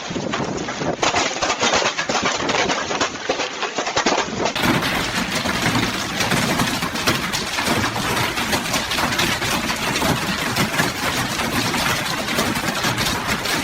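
Heavy hail pelting hard surfaces: a dense, unbroken clatter of ice impacts mixed with storm noise. The recording changes about four and a half seconds in to another stretch of the same kind of pounding.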